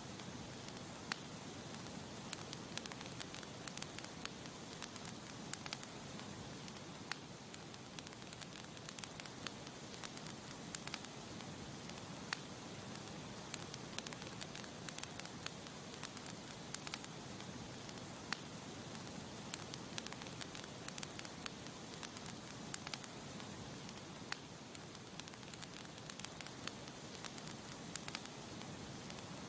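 Campfire burning steadily, with a constant soft hiss and many scattered sharp crackles and pops from the burning wood.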